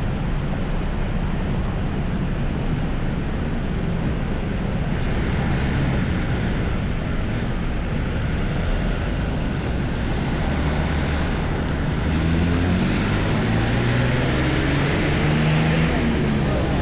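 Street traffic: vehicle engines running steadily, with one engine rising in pitch as it accelerates past in the last few seconds.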